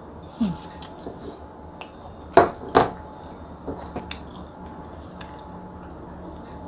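A person chewing food by mouth, with two loud sharp mouth or crunch sounds about two and a half seconds in and a few small clicks. A short low falling hum comes near the start.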